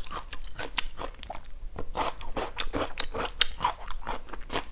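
Close-miked chewing of crunchy food, a quick run of crisp crunches several times a second.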